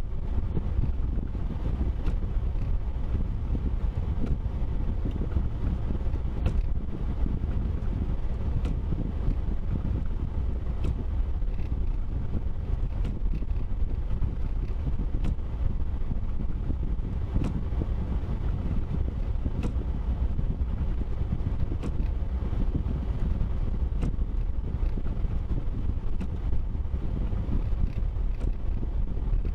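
Steady low rumble of a car driving, with wind buffeting the microphone and faint scattered clicks every couple of seconds.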